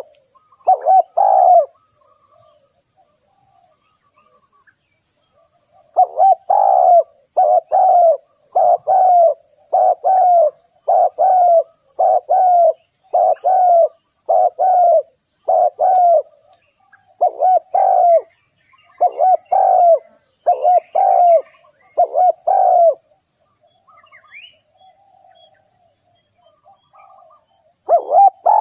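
Spotted dove cooing: a short phrase of coos at the start, then a long run of loud, low coo notes about once a second from around six seconds to about 23 seconds, and another phrase near the end. Faint chirps from small birds come in the pauses.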